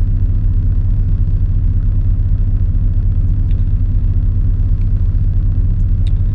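Steady low rumble of an idling diesel semi-truck engine, heard from inside the truck's cab, with a few faint small ticks.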